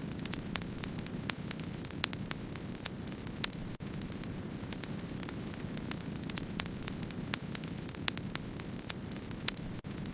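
Wood fire crackling: frequent sharp crackles and pops over a steady low rumble of burning. The sound cuts out for an instant twice, about four seconds in and near the end.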